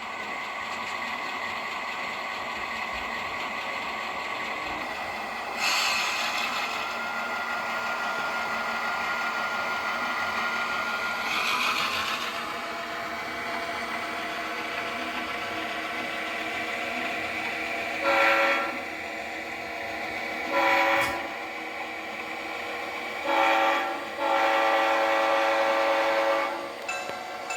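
Model diesel locomotive sound decoder playing a steady engine drone through its small speaker, with a couple of short hisses. Later it sounds a series of horn blasts: two short ones, then a short one leading into a long one.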